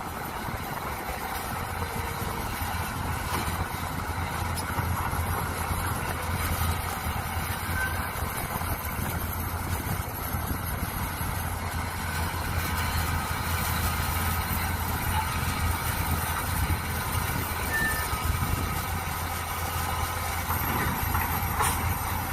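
Mini excavator engine running steadily, with a strong low hum.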